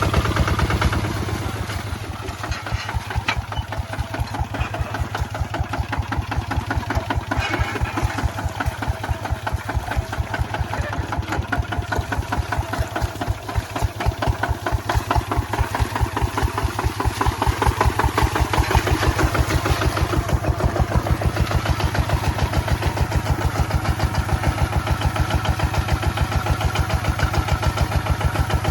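Kubota ZT155 single-cylinder diesel engine running with a steady rapid chug. It drops a little in loudness about two seconds in, then slowly builds back up.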